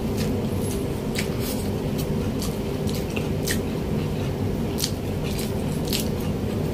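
A person chewing braised pork with open-mouthed, wet smacking, with about ten sharp mouth clicks scattered through. A steady low hum runs underneath.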